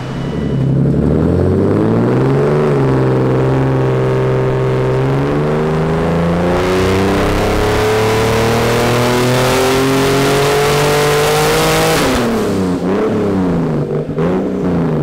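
Turbocharged BMW E36 M3 inline-six making a wide-open-throttle pull on a chassis dyno: the engine note holds for a few seconds, then climbs steadily in pitch for about seven seconds. About twelve seconds in it drops suddenly as the throttle closes, and the revs fall away unevenly.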